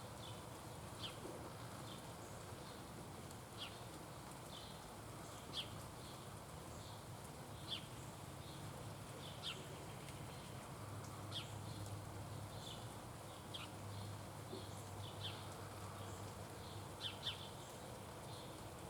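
A small bird giving short, high chirps about once a second, over a faint low hum.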